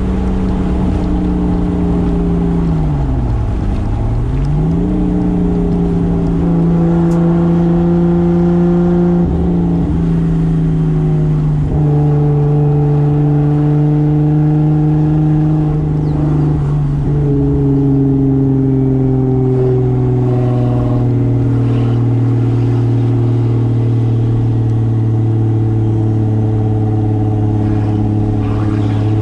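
Toyota Soarer's single-turbo 2JZ straight-six engine running under way. The engine note dips and comes back up about three seconds in, then runs steady, its pitch sinking gradually over the next twenty seconds and then holding.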